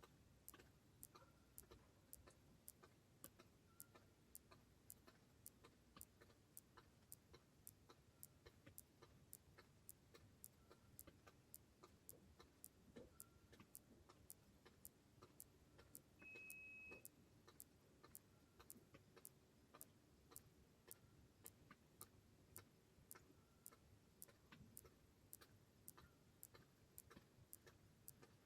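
Faint, even ticking, about two ticks a second, over a low, steady rumble. A short high beep sounds about sixteen seconds in.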